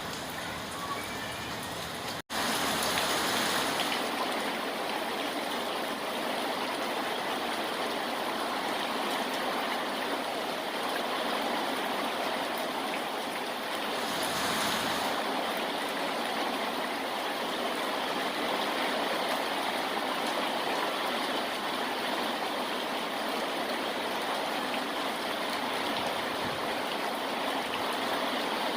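Steady rushing water noise. It drops out abruptly for an instant about two seconds in, then carries on slightly louder.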